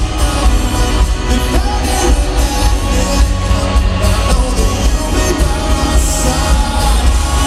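Live rock band playing loudly through a stadium PA, with singing over a heavy bass end.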